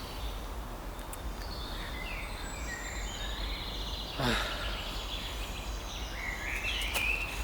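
Outdoor ambience with several birds calling: short rising and falling chirps and a brief fast trill, over a steady low rumble. One sharper sound comes about four seconds in.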